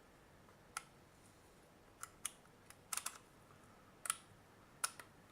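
Irregular small clicks and taps as a Micronta 22-186 digital multimeter is handled and its controls are worked, about eight in all, several bunched together near the middle.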